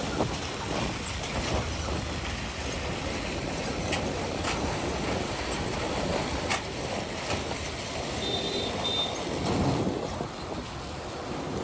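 Highway traffic: truck and vehicle engines running and rumbling over a rough, muddy road, with scattered knocks. Two short high beeps come about eight seconds in.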